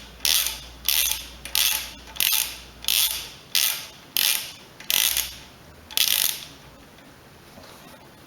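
Socket ratchet wrench ratcheting in quick back-and-forth swings, a burst of clicks roughly every half second while backing out a bolt on the mower's carburetor. The swings stop about six and a half seconds in.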